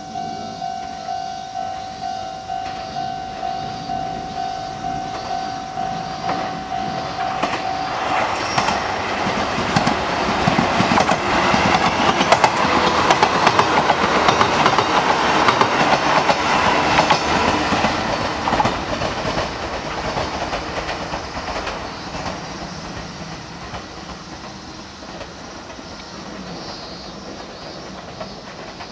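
Chichibu Railway 1000-series electric train (ex-JNR 101 series) passing close by: its loud running noise and wheels clattering over rail joints build, peak midway, and fade as it draws away. A repeating electronic ding pulses about twice a second over the approach and stops about eight seconds in.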